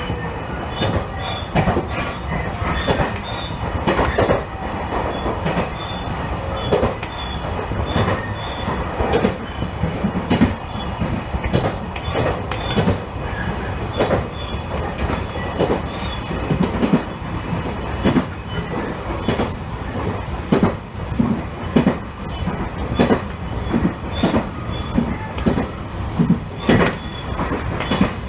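Electric train running along the line: a steady rumble of wheels on rail, broken by frequent irregular knocks as the wheels pass over rail joints.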